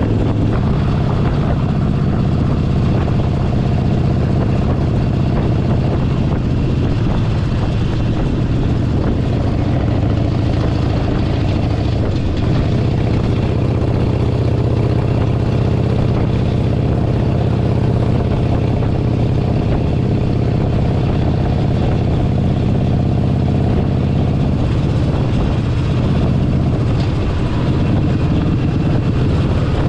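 Harley-Davidson Forty-Eight Sportster 1200's air-cooled V-twin running at a steady cruise, with the pitch shifting slightly about twelve seconds in and again near the end.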